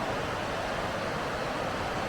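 Steady rushing of river water over small waterfalls: a continuous, even wash of noise.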